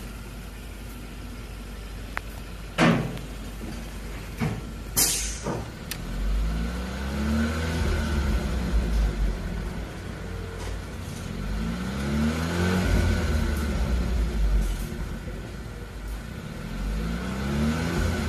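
2019 Hyundai Tucson's 1.6-litre turbocharged four-cylinder engine heard through an aftermarket four-tip rear muffler, idling with a few sharp clicks and knocks, then revved three times, each rev rising in pitch and dropping back to idle.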